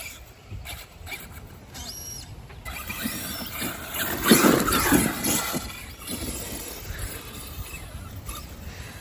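Brushless 1/14-scale RC monster truck, built on an LC Racing EMB-T truggy, running about, with short rising and falling motor whines. Its loudest stretch comes about four seconds in and lasts a second or so.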